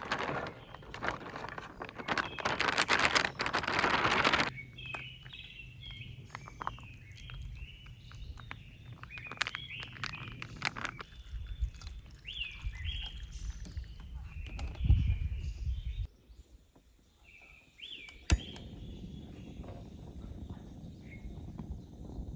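Birds chirping in quick, repeated short calls. Loud rustling noise fills the first few seconds, and a sharp click comes near the end.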